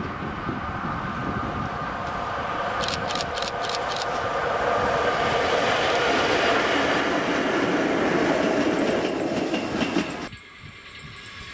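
Electric locomotive passing close by on the main line, its rolling noise building to a loud pass with clickety-clack of the wheels and a quick run of clicks about three seconds in. It cuts off suddenly near the end, leaving the quieter sound of another train approaching in the distance.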